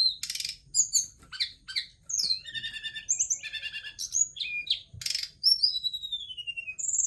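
Tledekan gunung, a caged songbird, singing a fast, varied song of high chirps, trills and whistles, with two short buzzy notes and a long falling whistle about three quarters of the way through.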